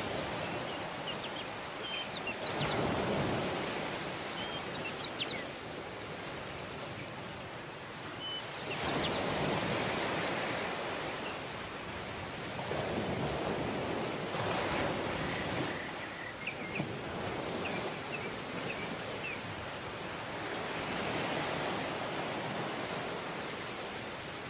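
Surf on a tropical beach: waves breaking and washing up the sand, the hiss swelling and falling back about four times. Faint short high chirps are scattered over it.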